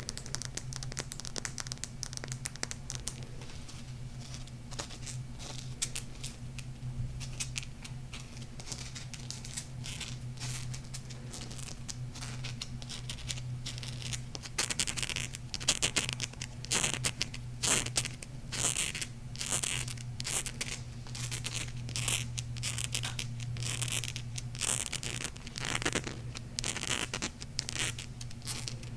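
Fingernails tapping and scratching on a honey calcite crystal: a dense run of fine scratchy clicks, turning into louder, sharper taps about halfway through. A steady low hum lies underneath.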